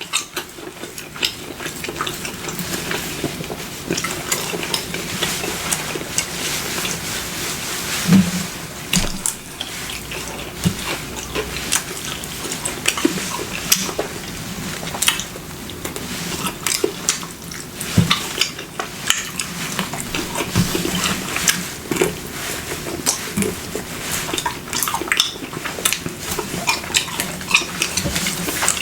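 Close-up eating of Alfredo bacon chicken wings: chewing with many short, wet mouth clicks and smacks over a steady hiss.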